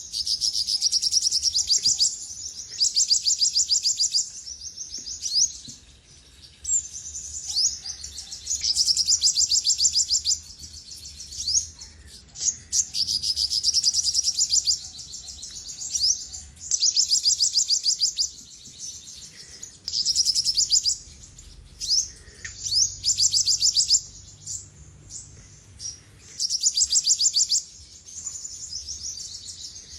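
Olive-backed sunbird singing: repeated bursts of rapid, high-pitched twittering trills, each one to two seconds long, with single sharp high notes in the gaps between.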